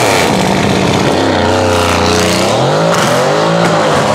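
A car's engine revving hard as the car accelerates away, its pitch climbing and dropping several times as it shifts up through the gears.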